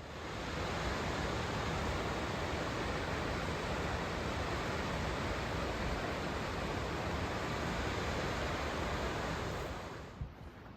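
Rushing water: a steady, even roar that comes in quickly at the start and fades out near the end.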